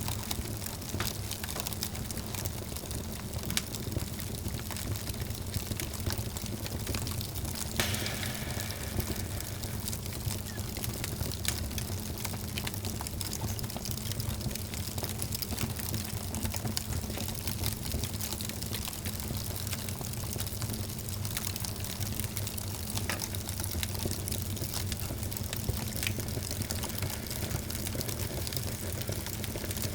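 Wood fire burning in a fireplace, crackling and popping with many scattered small snaps over a steady low rumble of flame, one sharper pop about eight seconds in.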